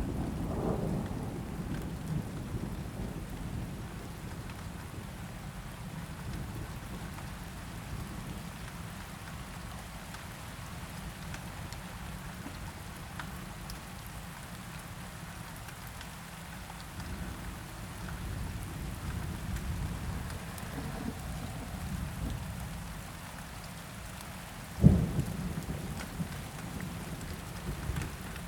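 Steady rain falling with low rolling thunder, and a sudden loud crack of thunder near the end.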